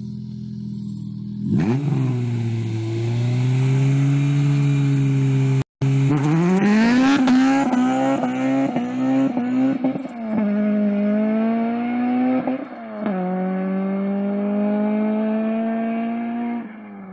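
Honda Civic EG6's 1.6-litre VTEC four-cylinder idling, then revving up and accelerating hard through the gears, the pitch climbing and dropping back at each upshift. The sound cuts out briefly about six seconds in.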